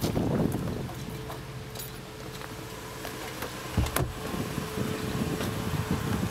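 Cadillac sedan idling with a steady hum. A couple of sharp knocks come about four seconds in.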